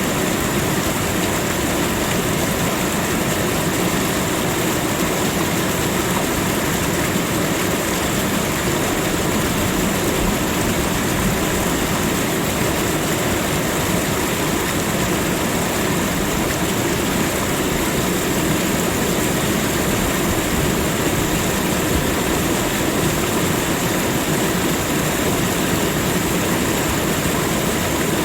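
Steady rush of running water, even in level and unbroken throughout.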